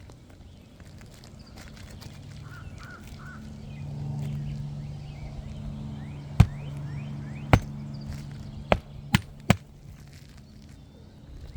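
Hammer driving roofing nails into an asphalt shingle: five sharp blows in the second half, the last three in quick succession. A steady low hum runs underneath through the middle.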